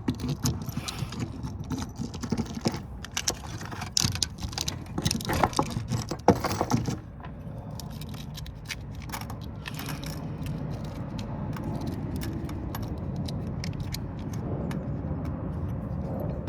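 Loose small steel screws clinking and rattling as they are picked through by hand and dropped into a small holder. Dense jingling for about the first seven seconds, then only occasional light clicks over a steady low background hum.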